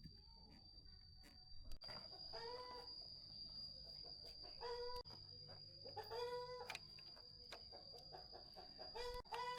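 Chickens clucking: a handful of short calls spread through, with a steady high-pitched whine under them.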